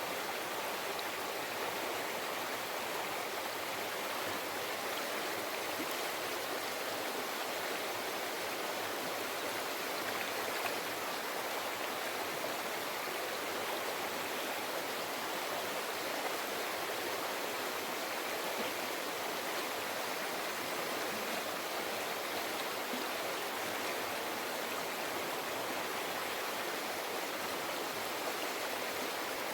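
River water flowing and babbling over rocks, a steady even rush with no breaks.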